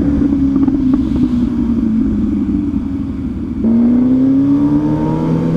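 MV Agusta Superveloce 1000 sportbike's inline-four engine running at a steady cruise under the rider. About three and a half seconds in it gets louder and climbs steadily in pitch as the bike accelerates.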